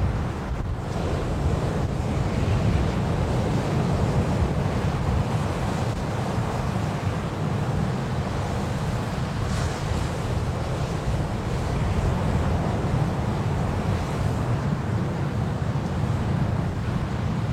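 Steady rushing noise of wind and surf, heaviest in a low rumble, with no distinct events.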